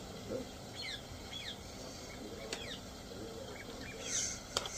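Small birds chirping in short, quick falling chirps, scattered through the whole stretch over a faint background hiss; a sharp click near the end.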